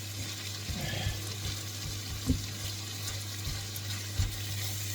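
Food sizzling steadily in a wok, with a few sharp knocks of a utensil against the pan, the loudest about two seconds in.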